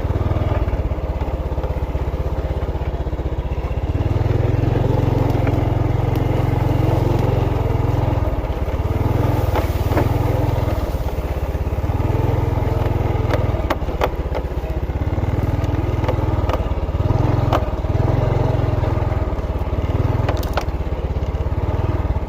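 Motorcycle engine running while riding, its low rumble rising and easing every second or two with the throttle, with a few sharp knocks and rattles from the rough track.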